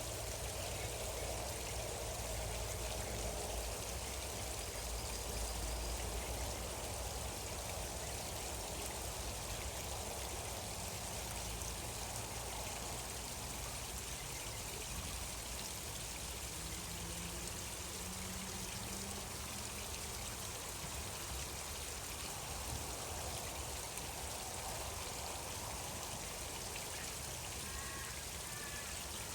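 Stream water flowing steadily, an even rush and trickle with no breaks.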